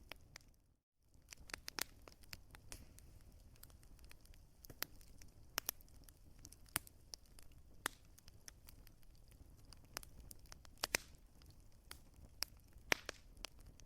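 Wood fire crackling: irregular sharp pops and snaps, a few louder than the rest, over a low steady rumble. The sound cuts out completely for a moment about a second in.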